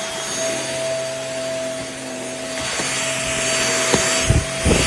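A cordless stick vacuum's motor running steadily with a high whine while it cleans the floor. A few sharp knocks come near the end.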